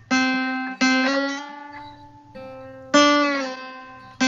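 Guitar played with a slide: about five single picked notes, each ringing out and fading, with a slight upward slide into one note about a second in and a small downward bend near the end. The timing of the phrase is uneven, the notes seeming to slide over the intended frets rather than landing on them.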